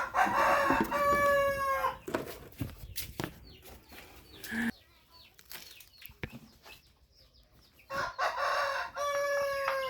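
A rooster crowing twice, each crow about two seconds long and the second about eight seconds after the first, with a few faint knocks between them.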